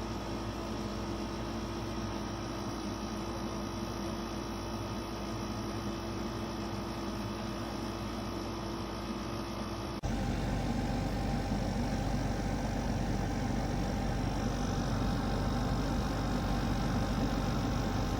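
Steady mechanical hum with a few steady tones over a low rumble. About ten seconds in it steps up abruptly, louder and fuller in the low end.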